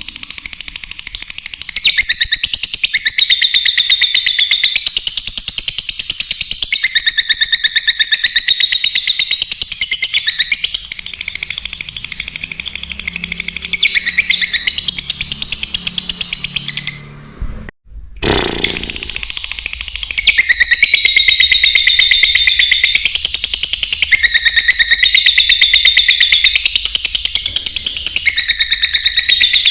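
Lovebirds chattering and chirping rapidly and without pause, high-pitched, with a brief sudden break just past the middle before the chirping resumes, a little louder.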